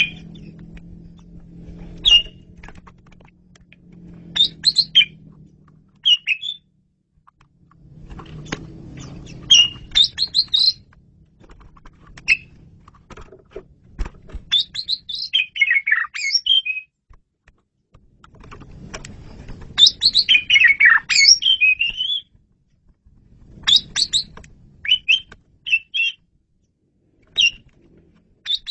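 Asian pied starling (jalak suren) singing: phrases of sharp chirps, whistled glides and harsh chattering notes, each a second or two long, with short pauses between.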